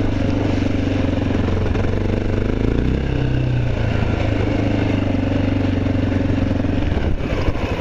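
Honda XR650L's big single-cylinder four-stroke engine running under way at a steady speed. The engine note shifts about three seconds in, and it comes off the throttle near the end.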